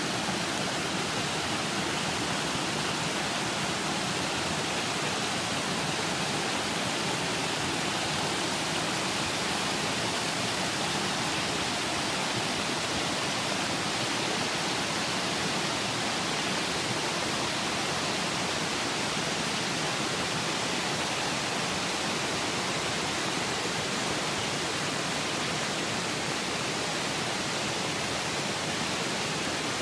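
The steady, unbroken rush of water falling at Soryu Falls (Soryu-no-taki) waterfall.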